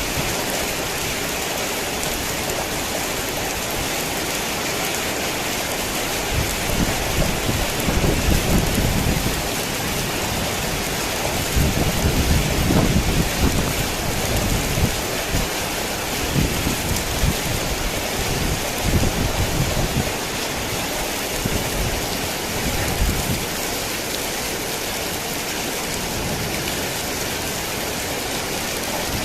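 Heavy rain falling steadily, with low rolling thunder rumbling in several waves from about six seconds in until a few seconds before the end.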